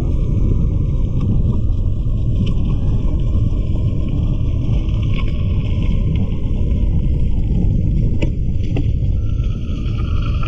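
Wind buffeting the microphone, a steady heavy low rumble with a fainter hiss above it. A few light clicks come through at intervals.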